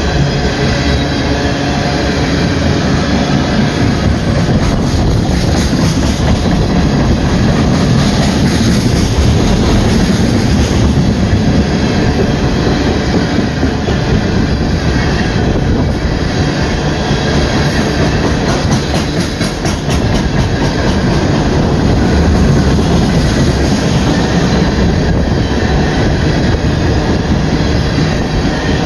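Empty ethanol tank cars of a BNSF freight train rolling past close by. Steel wheels on rail make a loud, steady rumble with a rapid clatter of wheels over the track.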